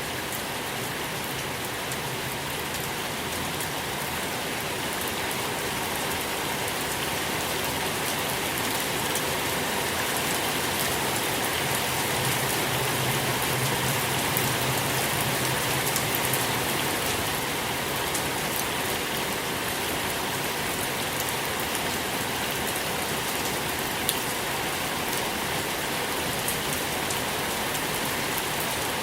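Steady rain falling on a surface, an even hiss of rain with scattered individual drops ticking through it.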